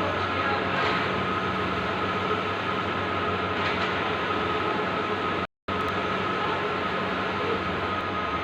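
Bluewin large-format outdoor digital printer running, a steady mechanical whirr with a constant hum. The sound cuts out completely for a moment about five and a half seconds in, then resumes.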